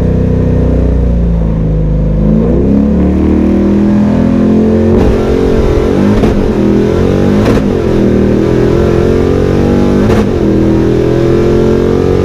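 Fox-body Mustang's 5.0 V8, with a Crower cam and open exhaust dumped behind the door, running loud with its engine speed rising and falling several times and a slow climb near the end.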